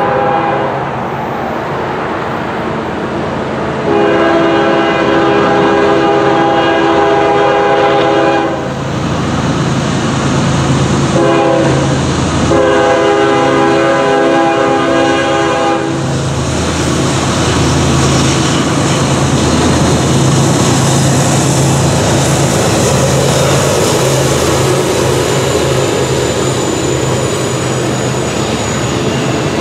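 Diesel freight locomotive's air horn blowing a grade-crossing signal: the end of one long blast, then a long, a short and a long. After that comes the locomotive's engine drone and the steady rolling noise of a double-stack intermodal train's cars going past.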